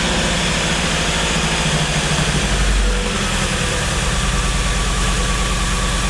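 Toyota 22R four-cylinder engine idling steadily, freshly swapped into the pickup and running smoothly.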